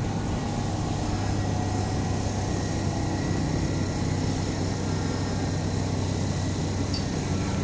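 Kintetsu electric train creeping to a halt at the platform and then standing: a steady low hum with faint high electrical tones, the fading motor whine sinking in pitch over the first few seconds as it stops.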